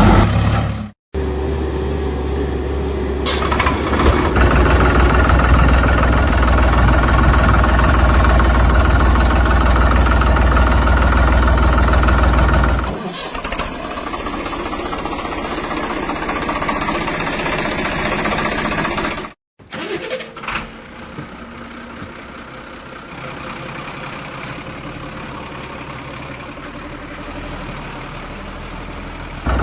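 Vehicle engine running, in three cut-together stretches: a loud, steady low hum in the first part, a change about 13 seconds in, and a quieter engine after a short silent cut near 20 seconds.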